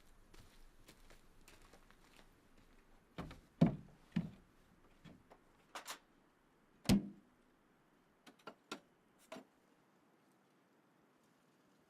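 A scattered series of knocks and clunks, like objects being handled or a door being worked. The two loudest thuds come about a third of the way in and just past halfway, with lighter clicks between and after.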